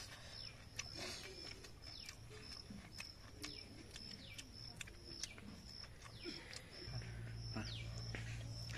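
Outdoor birdsong: one bird repeats a short high note about twice a second while other birds give quick falling calls. A low steady hum joins near the end.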